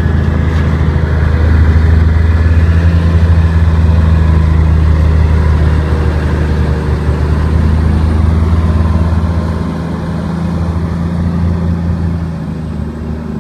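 Heavy vehicle engine running steadily with a deep, even hum, easing off slightly about ten seconds in.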